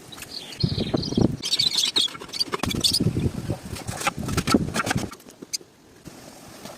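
Birds chirping while they feed, with many sharp clicks and soft low thumps among the chirps. It gets quieter about five seconds in.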